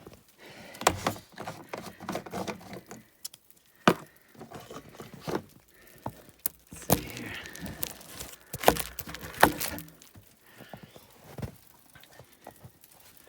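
A string of irregular knocks, clunks and rustling from things being handled close to the microphone, with several sharp louder knocks scattered through.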